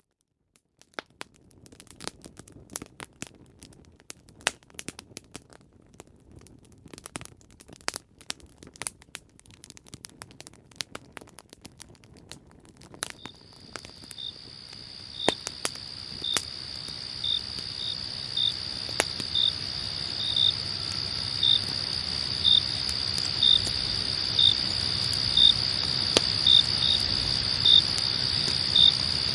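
Campfire crackling, with sharp pops, starts about a second in. From about 13 seconds a night chorus of crickets fades in and grows louder: a steady high trill with a chirp repeating about once a second, while the fire keeps popping now and then.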